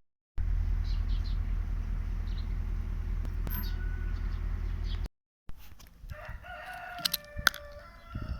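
A steady low rumble, then after a brief cut a rooster crowing: one drawn-out crow that holds and steps in pitch, with a couple of sharp clicks during it.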